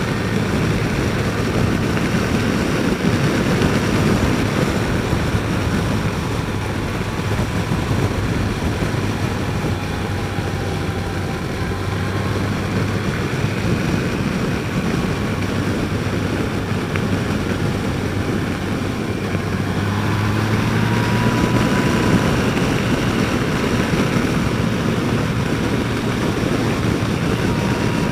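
Yamaha FJR1300 inline-four engine running at cruise under steady wind rush while riding, the engine note rising a little a couple of times.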